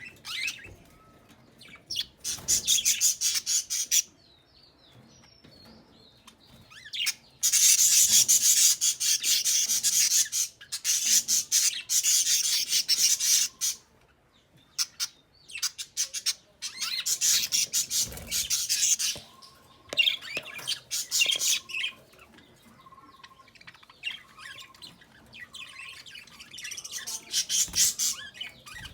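Bird calling in repeated bursts of rapid, high-pitched chattering chirps, each burst lasting one to three seconds, with quieter single chirps in the gaps.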